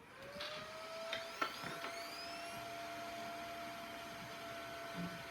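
Computer cooling fan spinning up as the motherboard is switched on: a rising whine that levels off into a steady hum after about two seconds, with two sharp clicks about a second in.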